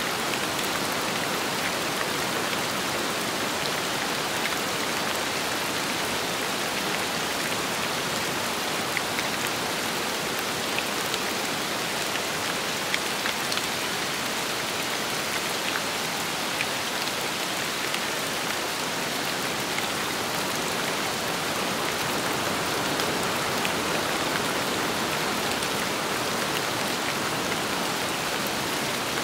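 Steady rain falling, with many scattered sharper ticks of single drops striking a surface.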